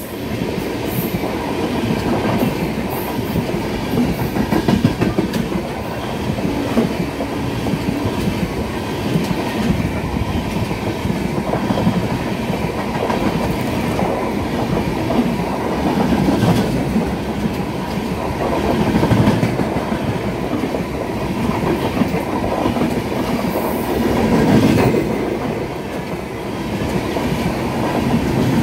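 Coaches of a passing express train running close by on the adjacent track: a steady, loud rumble of steel wheels on rail, with rapid clacking as the wheels cross the rail joints.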